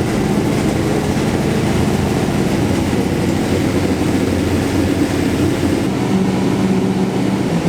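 A vehicle engine running steadily, a loud continuous drone with a low hum.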